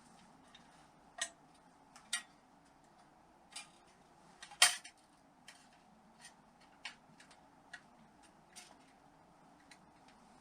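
Metal parts of a Honda XL600 engine being handled and fitted back together: scattered sharp clicks and light metal clinks at irregular intervals, with one louder knock about four and a half seconds in.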